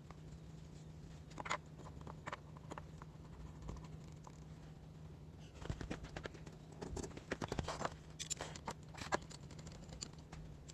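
Scattered small clicks and scratching, like hands handling objects, over a steady low hum. The clicking grows busier about halfway through.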